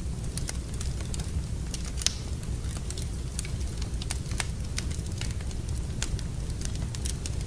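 Fireplace fire crackling, with irregular sharp pops over a steady low rumble; one pop about two seconds in stands out as louder.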